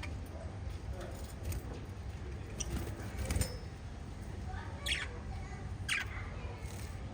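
Small pet parrots chirping: a few faint scattered chirps, then two louder short calls about a second apart, over a steady low hum.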